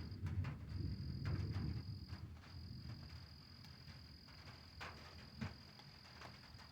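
Deep rumble of distant thunder that fades out after the first two seconds or so. Under it run a steady high insect trill that breaks off briefly twice, and scattered drips of light rain.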